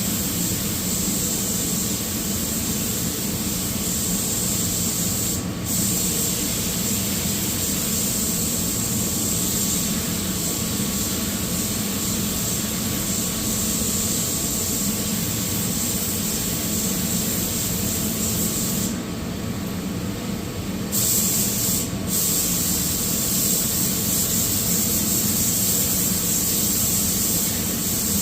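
Paint spray gun hissing steadily as black epoxy primer is sprayed, cutting out briefly a few times as the trigger is let off, with a steady low hum underneath.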